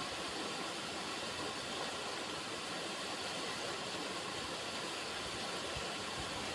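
River water running: a steady, even rushing hiss with no breaks or changes.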